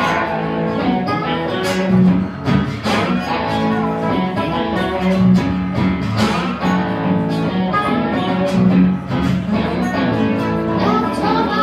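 Blues band playing live with guitar, a steady low bass note underneath and repeated plucked and strummed chords.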